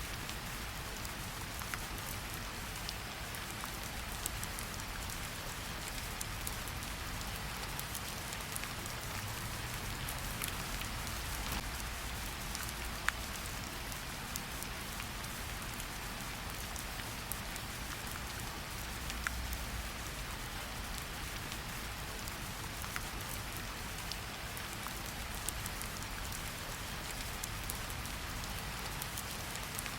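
Steady forest rain falling on leaves and ground, an even hiss with scattered sharper drops ticking close by.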